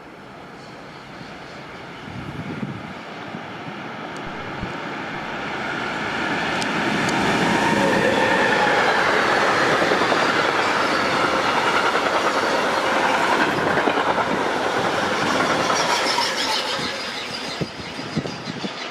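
A train running past on the main line. Its rolling noise builds over the first several seconds, stays loud through the middle and eases off near the end.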